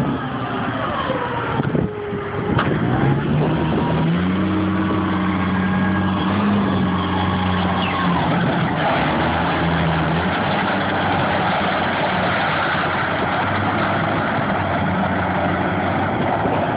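Forklift engine running steadily; its pitch rises about three seconds in and then holds, with a few short knocks around two seconds in.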